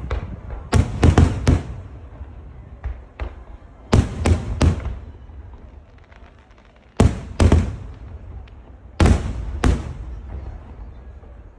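Aerial firework shells bursting high overhead: four clusters of two or three sharp booms, roughly every two to three seconds, each trailing off in an echoing rumble, with faint crackling in between.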